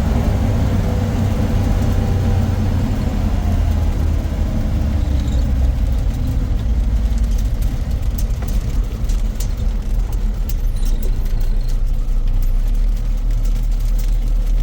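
Motor vehicle engine running with a heavy, steady low rumble, its pitch easing down over the first few seconds, with scattered light clicks and rattles later on.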